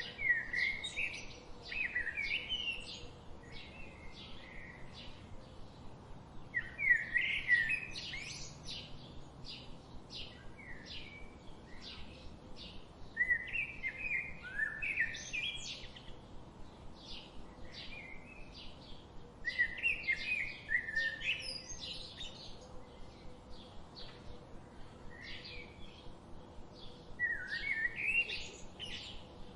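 Wild songbirds singing: one bird repeats a sweeping, varied song phrase of about two to three seconds roughly every six to seven seconds, over a steady run of short high chirps from other birds.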